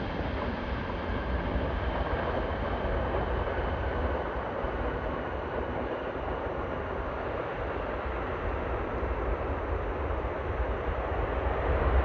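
Boeing 777F freighter's GE90 jet engines, a steady rushing rumble that grows louder near the end.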